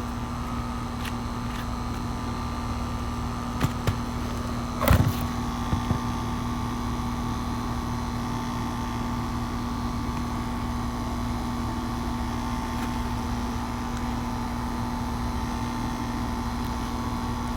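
Steady machine hum with a low rumble, broken by a few sharp clicks and knocks about four and five seconds in.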